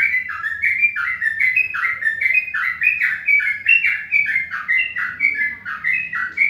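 Birdsong: short, rapid chirps running on without a break, several notes a second.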